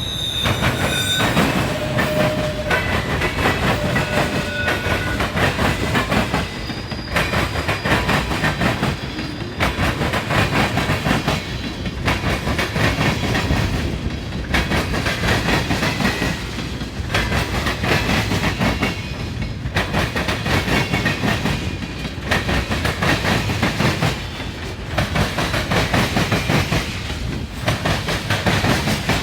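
Freight cars of a manifest train rolling past, with a steady rumble and clickety-clack of wheels over the rail joints that swells and dips about every two seconds as the cars go by. Thin high wheel squeals sound in the first few seconds.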